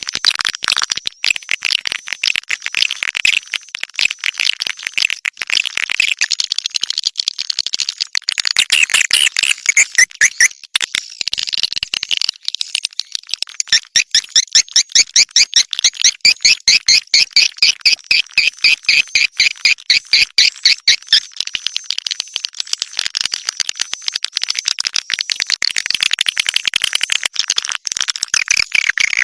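A bird calling with a rapid, high-pitched rattling chatter, a long run of quick repeated pulses that becomes most even and regular through the middle.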